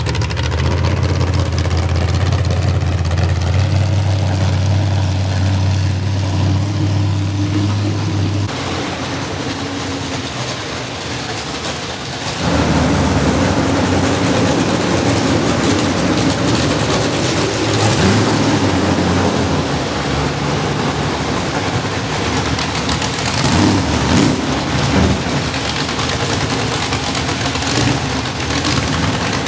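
Demolition derby car engines running. A steady low drone for the first several seconds gives way to a quieter noisy stretch, then a louder, busier engine sound returns about twelve seconds in.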